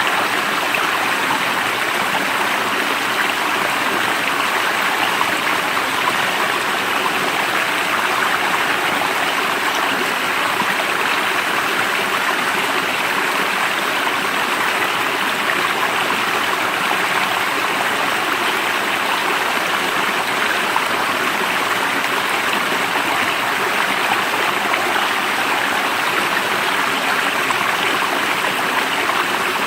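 Stream water flowing steadily, an even rushing babble with no breaks.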